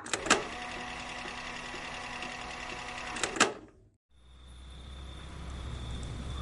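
A car's electric starter whirring steadily for about three and a half seconds, with a click near the start and near the end. After a short gap the engine is running with a low, steady rumble. The starter is a bad one.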